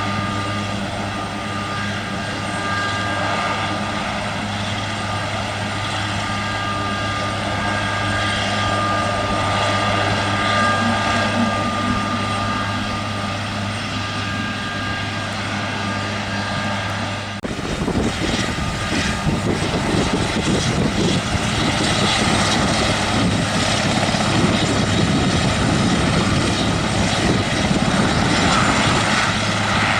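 Aerospatiale AS332L1 Super Puma helicopter running, a steady high turbine whine over a low hum. About seventeen seconds in the sound changes abruptly to a louder, rougher rush with more low rumble.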